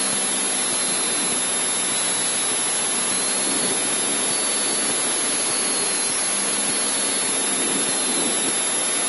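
Cessna 152's four-cylinder Lycoming engine and propeller running steadily at low taxi power, heard inside the cockpit as an even rushing noise with a faint low hum.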